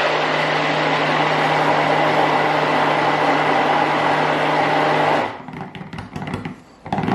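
Handheld stick blender motor running steadily while mixing colour into soap batter, cutting off suddenly about five seconds in, then a few light handling sounds.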